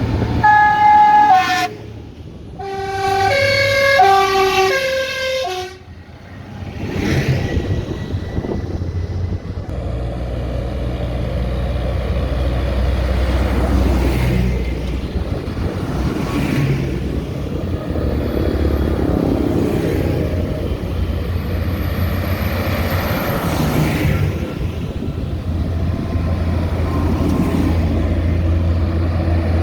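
A multi-note musical horn plays a short run of notes, then a longer stepping tune that stops about six seconds in. After that, tractor engines run with a steady low rumble that rises and falls a little.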